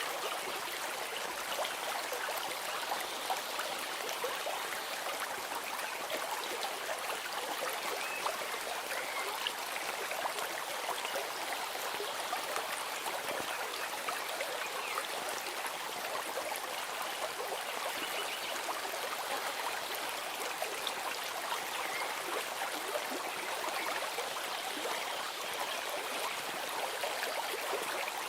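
A stream flowing steadily: an even rush of trickling, babbling water.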